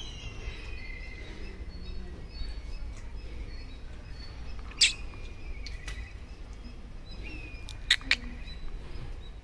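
Birds calling: several thin whistled notes that fall in pitch, over a steady low rumble. Two sharp clicks stand out, about five and eight seconds in.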